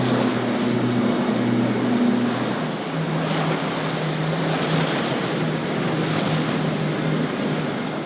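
Outboard engines of passing center-console fishing boats (a SeaVee Z, then an Intrepid 375) running steadily through the inlet. One boat's low drone gives way about two and a half seconds in to another's slightly higher drone, over the rush of hull wash and surf, with wind on the microphone.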